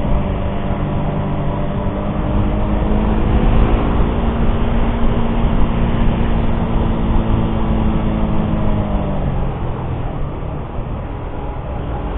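Suzuki GSX-R150's single-cylinder 150 cc engine running at steady revs while riding. Its note dips and fades about nine seconds in as the revs drop.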